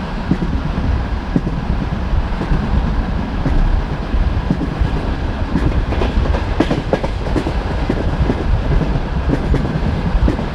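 Passenger train carriage running at speed: a steady rumble with wheels clattering over the rail joints, the knocks coming thickest a little past the middle.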